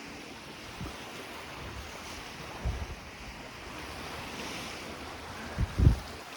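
Small waves on Lake Ontario washing against the shore, with wind blowing across the microphone; a few low wind thumps, the strongest near the end.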